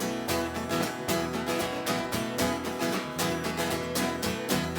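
Instrumental break of a song between sung verses: acoustic guitar strummed in a steady, even rhythm over a bass line.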